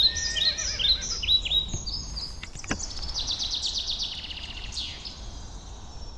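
Songbirds singing: a run of quick, sharp down-slurred chirps, then a long fast trill about halfway through, over a low steady rumble.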